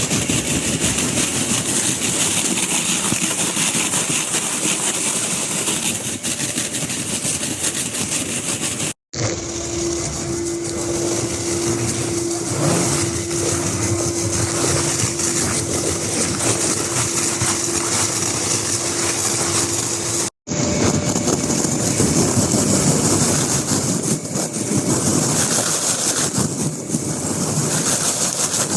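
Duct-cleaning rotary brush machine running steadily, its motor spinning the brush with a broad hiss of brushing and moving air. A steady hum runs through the middle stretch, and the sound breaks off for an instant twice.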